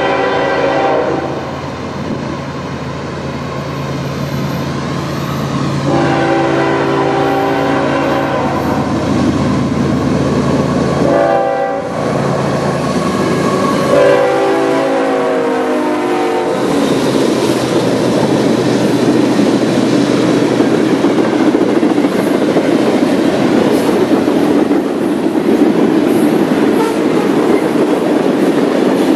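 CSX freight train Q370 sounding its multi-tone locomotive horn in several blasts, a short one at the start, a long one, a short one and another long one. It then rolls past with a loud, steady rumble and clatter of wheels and cars.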